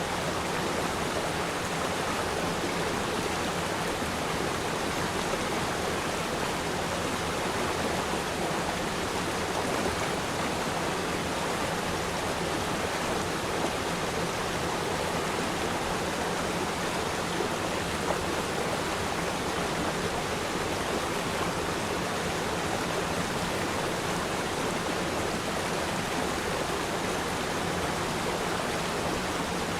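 A river stream flowing, a steady rushing of water without pauses or changes.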